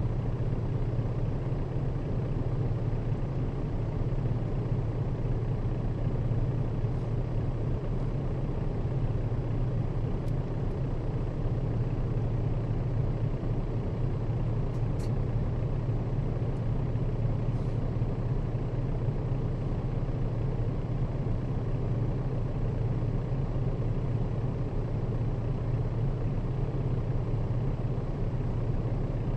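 Nissan Diesel KL-RA552RBN city bus running along steadily, its diesel engine drone and road noise heard from the passenger cabin, with a few faint high ticks.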